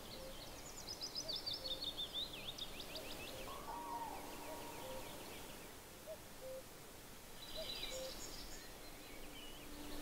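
Small birds singing faintly: a rapid run of chirps that falls in pitch over the first few seconds, then another burst of chirps near the eight-second mark. Short low calls repeat softly underneath.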